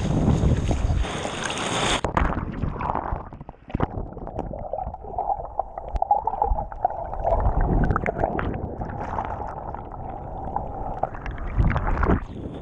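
Wind and surf noise on the microphone for about two seconds, then muffled water sloshing and gurgling for the rest, heard through a camera in or at the surface of the sea.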